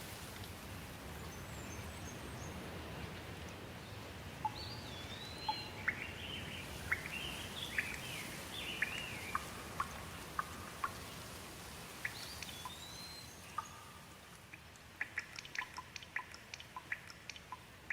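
Steady rain falling, with birds calling over it: a few whistled calls that sweep up and down and runs of short chirps. The rain grows quieter over the last few seconds while a quick series of chirps continues.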